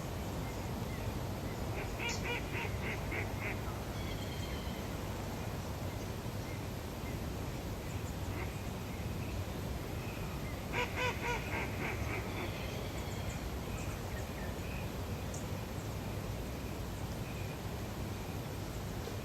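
Birds calling at a lake. A quick run of about six short repeated notes comes about two seconds in, and a louder rapid series of calls comes around eleven seconds, with a few faint higher chirps between, all over a steady low outdoor rumble.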